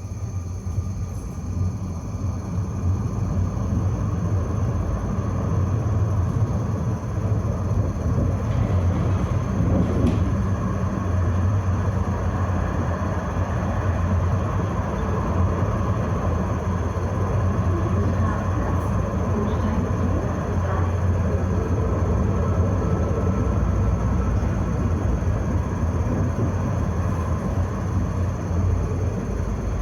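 Tram running along its rails, heard from on board: a steady low rumble of wheels on track that grows louder over the first few seconds as the tram picks up speed.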